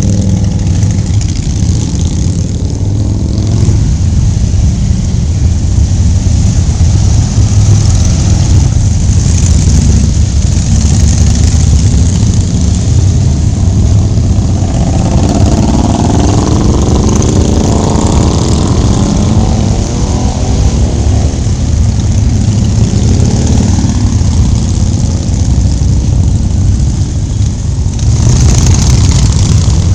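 Motorcycle engine running steadily under way with a loud low rumble; around the middle the engine pitch rises and falls.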